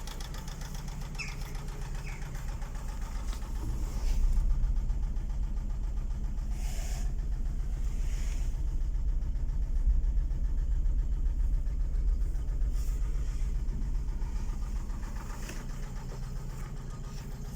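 Daewoo Nexia engine running with a knock. It gets louder suddenly about four seconds in, then eases off slowly toward the end.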